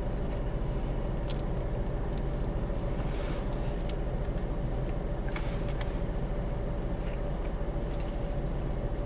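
A steady low hum with a few faint, scattered clicks, as a mouthful of burger is chewed.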